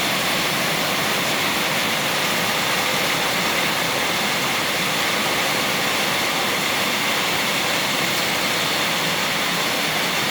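Heavy rain pouring down in a steady, unbroken hiss during a thunderstorm downpour.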